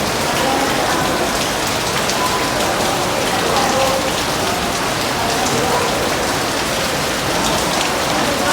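Steady heavy rain falling on surfaces: a dense, even hiss with countless sharp drop ticks. Short, faint pitched notes come and go through it.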